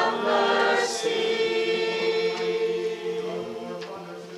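Church choir singing a litany response in harmony: the voices move to one chord about a second in and hold it, fading gradually toward the end.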